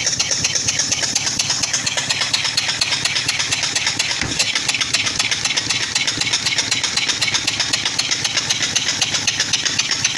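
Small scratch-built double-acting steam engine running, with a rapid, even beat of exhaust chuffs and a steady hiss from its open exhaust, which has no exhaust system yet.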